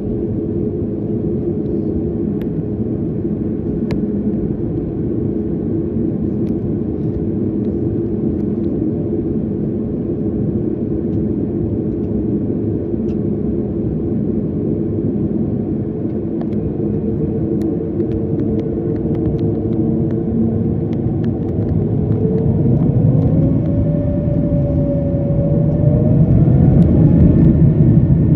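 Jet airliner engines heard from inside the cabin: a steady hum, then over the last several seconds a whine rises in pitch and the sound grows louder as the engines spool up.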